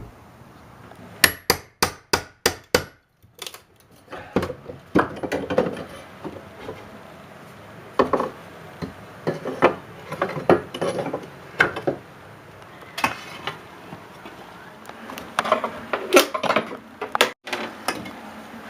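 Hammer blows and knocks on wood: a quick run of about six sharp taps about a second in, then scattered knocks and clatter of tools on wood.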